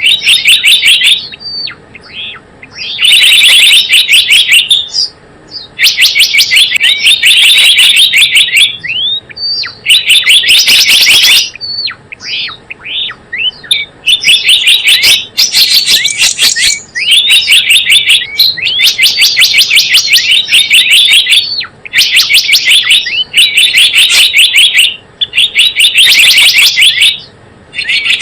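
Gelatik bloong bird calling, as used for a lure (pikat) recording: loud bursts of rapid, high chirps, each burst lasting a second or two, repeating with short pauses.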